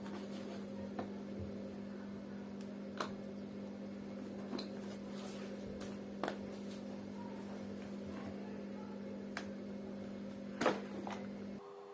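A few scattered small clicks and taps of parts and tools being handled while a vacuum cleaner's wiring and circuit board are taken apart, the loudest near the end. Under them runs a steady low hum that cuts off suddenly just before the end.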